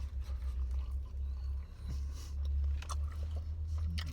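A person chewing fried chicken tenders close to the microphone, with scattered short wet mouth clicks and crackles. A steady low hum runs underneath.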